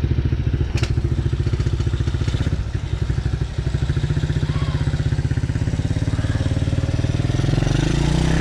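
TaoTao DB14 110cc four-stroke single-cylinder dirt bike engine idling with an even putter, its revs rising over the last couple of seconds.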